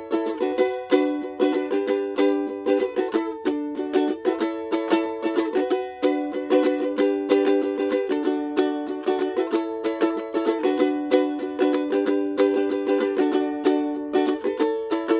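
Ukulele strummed in a steady, busy rhythm, playing a chord progression of A minor, F, C and G shapes with a capo on the second fret, the chords changing every few seconds.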